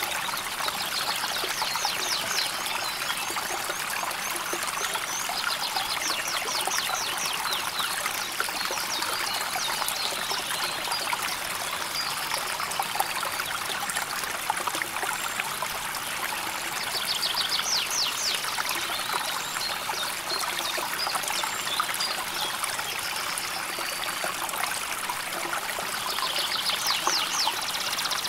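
River water flowing steadily over stones, an even trickling rush. A few times a short, rapid, high-pitched animal trill sounds over it.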